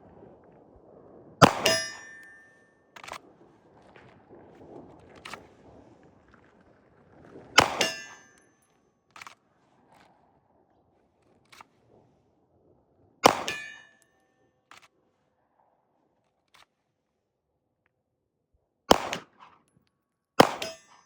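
Five pistol shots, slow-fired several seconds apart with the last two closer together; each is followed by a brief metallic ring, typical of a steel target being hit. Fainter pops come between the shots.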